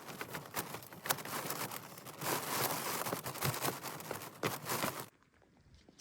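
Rustling and crackling of dry leaves and twigs, with many sharp snaps, stopping abruptly about five seconds in.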